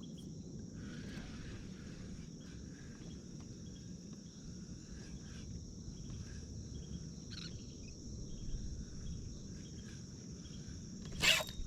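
A steady high-pitched insect-like drone over a low outdoor rumble, with a brief louder noise just before the end.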